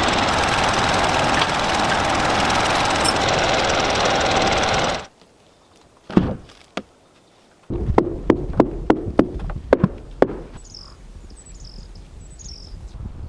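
Steady loud machine-like noise that cuts off suddenly about five seconds in. A run of sharp knocks follows, about three a second, like hammering or chopping on wood, then a few faint bird chirps.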